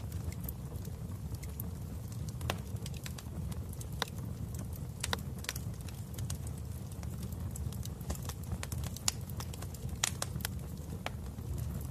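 Wood fire burning in a fireplace: a steady low rumble of flame with irregular crackles and sharp pops of burning wood.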